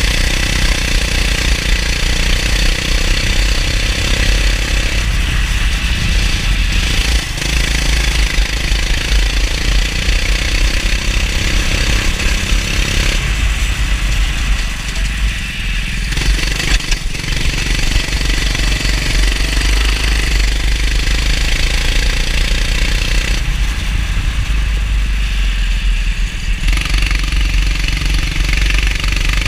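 Kart engine running hard, heard onboard, its note rising and falling several times as the kart slows for and powers out of corners, over a steady hiss.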